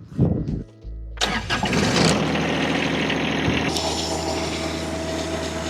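Tractor engine running as the PTO is engaged about a second in, setting a rear-mounted snowblower turning: a sudden loud whirring rush that then holds steady over the engine hum.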